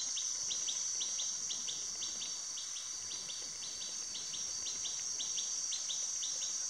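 Tropical jungle ambience: a steady high-pitched drone of insects, with a short rising chirp repeated about three times a second.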